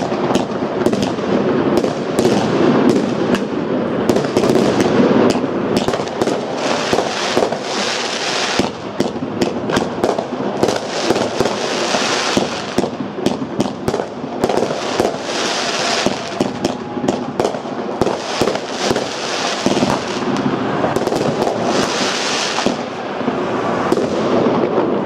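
Fireworks going off without pause: a dense run of sharp bangs from shells and firecrackers, with a high hiss swelling up every few seconds.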